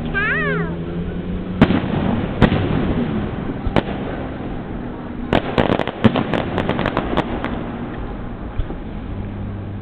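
Aerial fireworks bursting at a distance: single sharp bangs about one and a half, two and a half and four seconds in, then a rapid crackle of many small reports from about five to seven and a half seconds.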